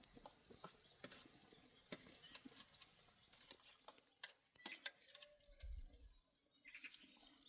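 Near silence with faint, scattered clicks and light taps, and a soft low thump about six seconds in.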